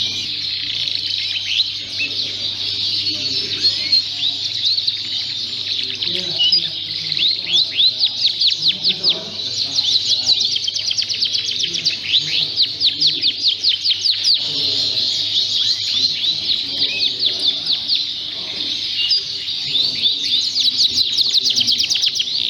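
Many Fife canaries singing together, a dense chorus of high chirps with bursts of rapid trills about a third of the way in and again near the end.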